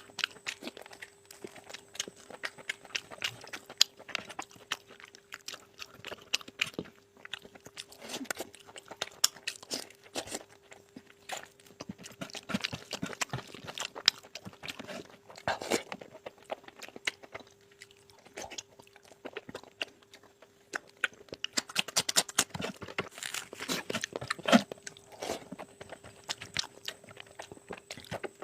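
Close-up sounds of a person chewing and biting a meal of curry and rice: a dense, irregular run of short clicks and crunches.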